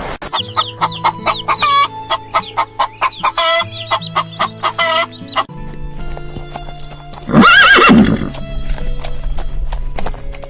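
A horse whinnies once, loudly, about seven seconds in, its pitch wavering. Before it come a few seconds of quick clicks and chirps, and background music with a steady bass line plays throughout.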